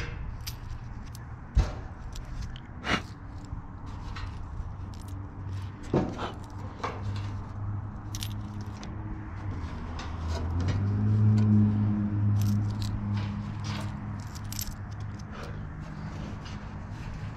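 Loose coins and small metal bits clinking and scraping as they are picked out of a dryer's cabinet, in scattered clicks. A low hum swells and fades in the middle.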